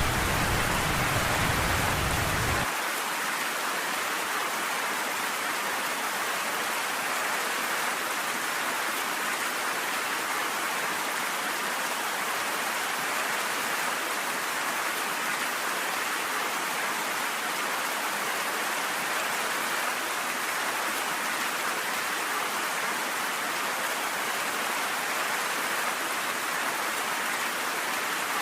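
Steady rainfall, an even hiss of falling rain. A low rumble sits under it for the first few seconds and stops abruptly.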